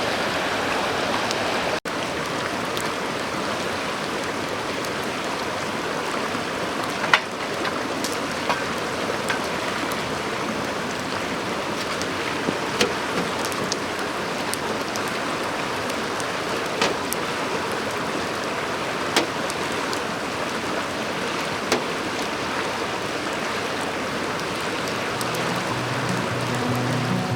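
A clear shallow river running over stones, a steady rushing murmur. About half a dozen sharp pops cut through it every few seconds.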